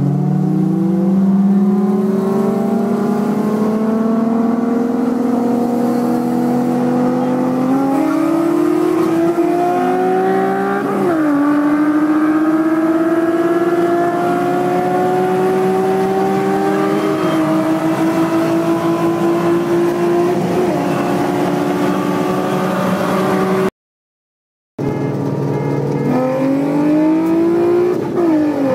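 VQ-series V6 of a VQ-swapped Nissan Sentra at full throttle, heard from inside the car, its note rising steadily through the gears with upshifts about 11 and 17 seconds in. After a one-second dropout near the end, another pull climbs and shifts.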